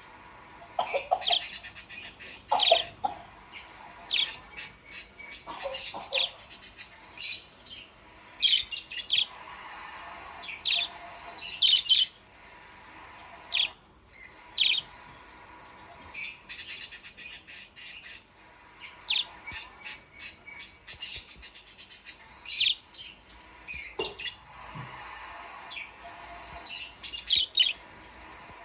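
Budgerigars chattering in full song: a busy warbling chatter broken by many short, sharp chirps and squawks.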